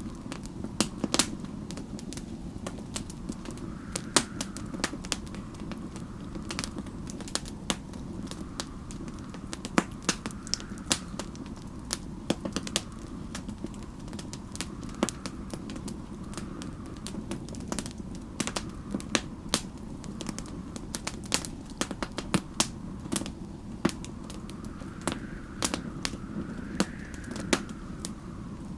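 Wood fire crackling, with many irregular sharp pops and snaps over a steady low rumble. A faint whistle of snowstorm wind rises and falls in pitch every few seconds.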